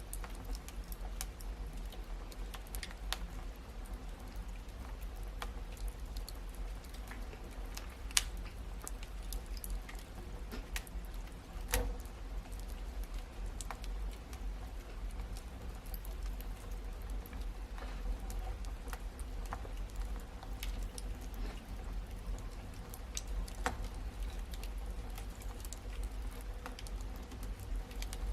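Wood fire crackling in a fireplace: irregular sharp pops and snaps over a steady low rumble of the flames, with a louder pop about eight seconds in and another about twelve seconds in.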